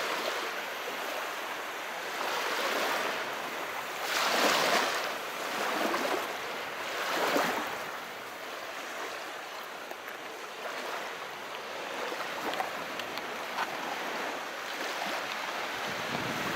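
Calm sea waves: a steady wash of water noise, swelling into two louder surges about four and seven seconds in.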